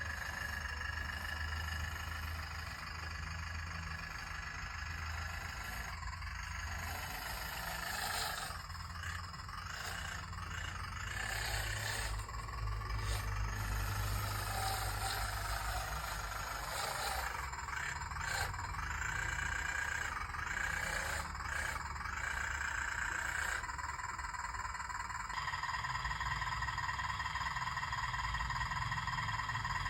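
Electric motors of a radio-controlled excavator whining steadily as it works. The pitch shifts several times, stepping up clearly about three-quarters of the way through.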